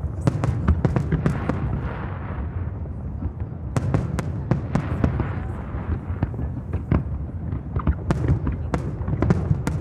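Aerial fireworks bursting in rapid volleys of sharp cracks and bangs over a continuous low rumble of booming shells. The reports come thickest right at the start, again about four seconds in, and near the end.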